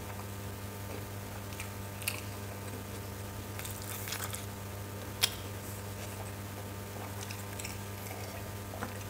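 Close mouth sounds of a person chewing food, with scattered soft wet clicks and smacks, the sharpest about five seconds in, then sipping from a glass near the end. A steady low electrical hum runs underneath.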